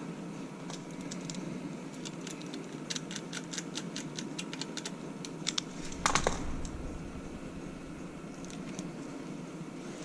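A run of quick, light metallic clicks and taps as small pump parts are handled, then one louder clunk about six seconds in, over a steady low background hum.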